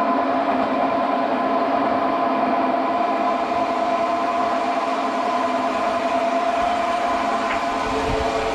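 Sawmill machinery running steadily: a loud, even mechanical drone carrying several steady whining tones.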